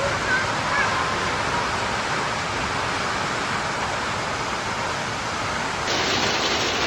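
Strong wind with hail and rain pelting down, a steady dense rush, slightly louder from about six seconds in.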